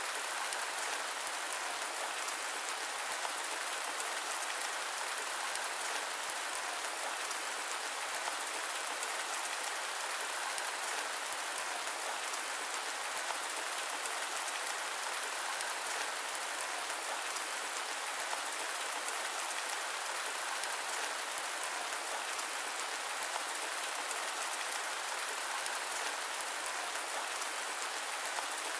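Steady rain, an even hiss of many small drops that does not change.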